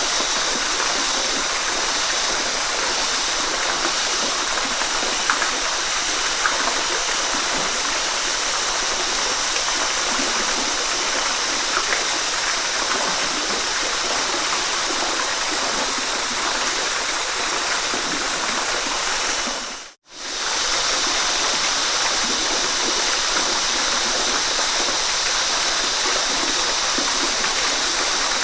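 Waterfall rushing steadily, an even hiss of falling water. About two-thirds of the way through it dips briefly to silence and fades straight back in.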